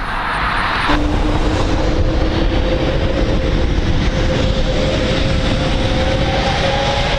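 Aircraft engine running loudly, a steady rush with a whine that rises slowly in pitch, as when the engines spool up; it jumps in level about a second in.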